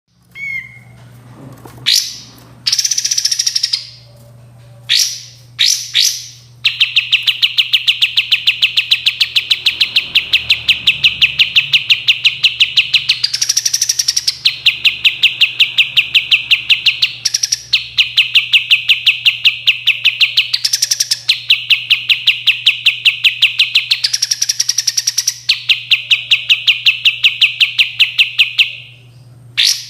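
Kapas tembak bulbul song: a few short rising whistled notes, then long, fast trills of evenly repeated notes, about nine a second, broken every few seconds by higher notes. A steady low hum lies under it.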